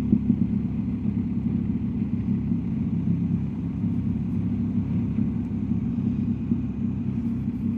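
BMW R1250GS Adventure's boxer-twin engine running at a steady cruising speed, a low even drone with road noise underneath.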